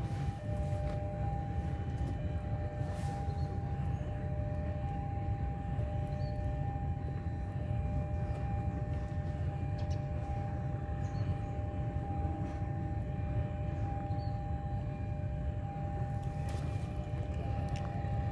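Distant approaching train: a steady low rumble with two steady whining tones held throughout.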